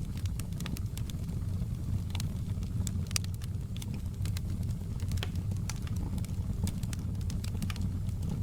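Wood logs burning in a fireplace: a steady low rumble of the flames with scattered sharp crackles and pops at irregular moments.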